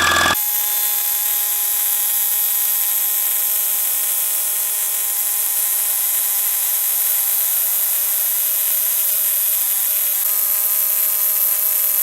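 A small motor running steadily, a continuous machine whine with several steady tones under a strong high hiss, starting abruptly about half a second in.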